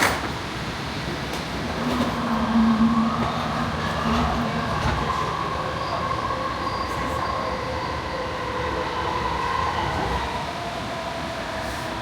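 AirTrain JFK people-mover car running between stations, heard from inside: a steady rumble of wheels on track with a steady electric motor whine. A brief knock right at the start.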